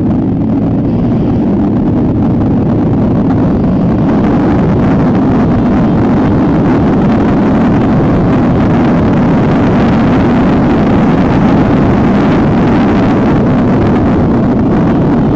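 Motor vehicle driving: a loud, steady din of engine and road noise, with an engine hum low in pitch.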